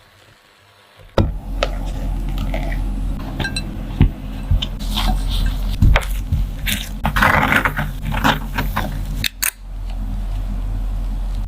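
Kitchen utensils and dishes clinking, knocking and scraping over a steady low hum, which drops out for about the first second.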